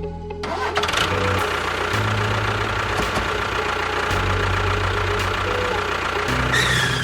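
An engine starts up about half a second in and runs steadily for several seconds, dying away near the end.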